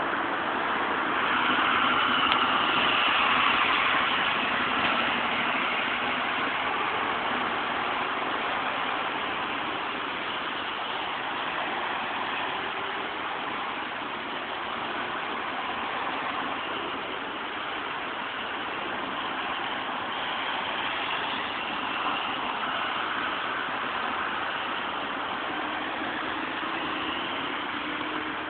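Steady idling of heavy vehicle engines under a broad, even hiss, a little louder in the first few seconds.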